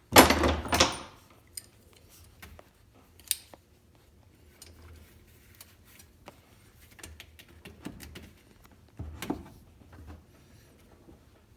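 Metal hand tools clattering and clicking while zip ties and hoses are worked loose around a jet ski engine. There is a loud clatter at the start, then scattered sharp clicks and a further rattle about nine seconds in.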